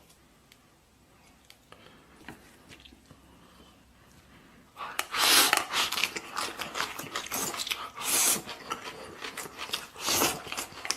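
Close-up mouth sounds of eating: wet chewing and smacking of a spoonful of soft braised stew. It begins about halfway through, after a near-quiet start with a few faint ticks.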